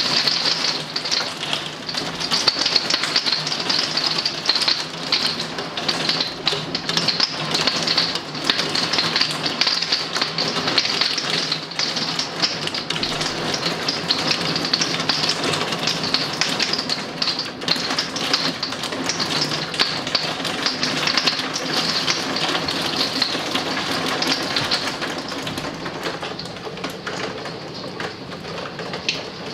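Heavy downpour mixed with hail, a dense, rapid tapping of drops and hailstones striking a surface. It eases slightly near the end.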